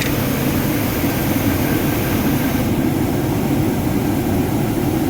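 Steady low mechanical hum at an even level, like a fan or air-conditioning unit running.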